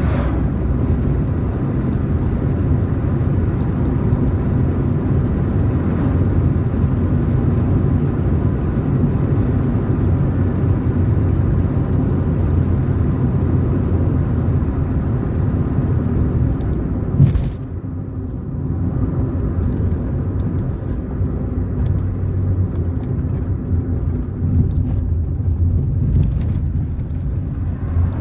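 Car being driven along a road: a steady low rumble of engine and tyre noise. A single sharp knock comes about two-thirds of the way through, after which the rumble is a little quieter.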